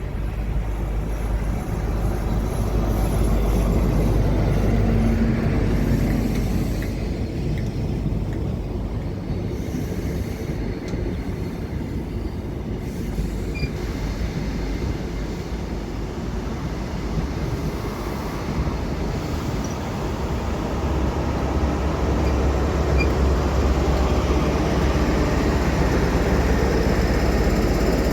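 A train running past on the rails: a continuous rumble and rail noise, with the deep low rumble growing louder in the last third.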